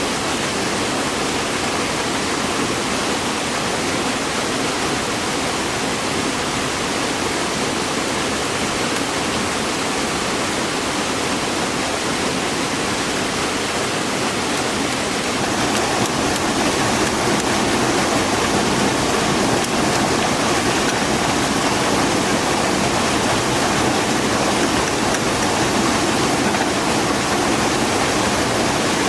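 Rushing water of a waterfall: a steady, even rush that gets a little louder about halfway through.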